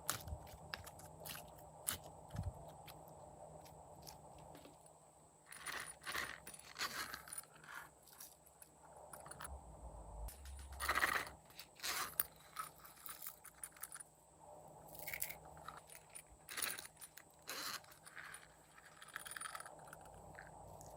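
Hands squishing and stretching slime: irregular sticky clicks, pops and crackles, louder in a few short bursts.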